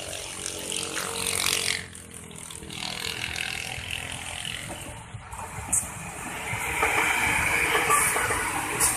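KRL electric commuter train running along the tracks. Its noise swells to about a second and a half in and drops away sharply just before two seconds, then builds again and grows louder over the last few seconds.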